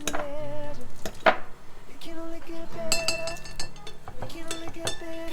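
Cutlery and dishes clinking: a run of light clicks and clinks of utensils on tableware.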